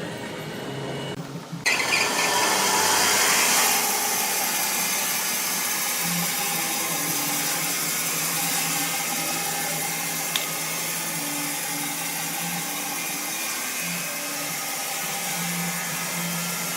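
A power saw cutting wood, a steady noisy run that starts abruptly about two seconds in.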